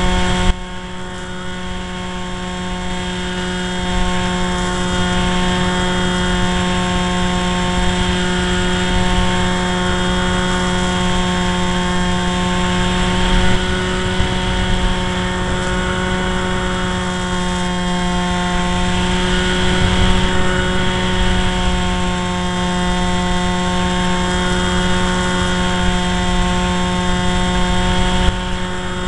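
Strong wind rumbling on the microphone, over a steady hum that holds one pitch throughout. There is a short dip in level about half a second in.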